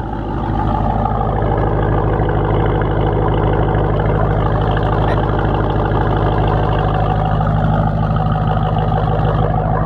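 Engine of a 2018 Jeep Grand Cherokee Trackhawk, a supercharged 6.2-litre V8, running steadily at an even pitch.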